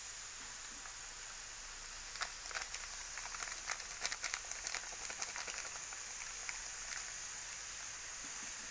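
Minced frog meat and chili paste sizzling in a wok: a steady hiss, with a scatter of faint ticks and crackles in the middle.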